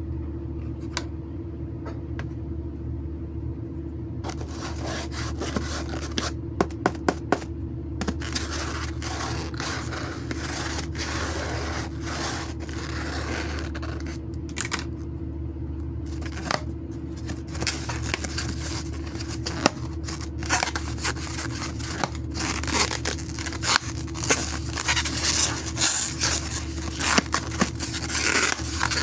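Scraping and rustling handling sounds with scattered sharp clicks, growing busier and louder toward the end, over a steady low hum.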